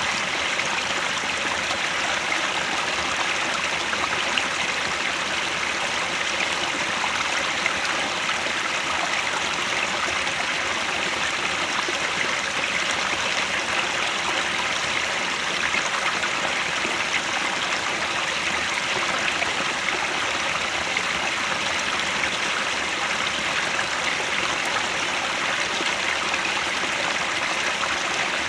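Mountain headwater stream flowing steadily, an even, unbroken rush of water over rocks.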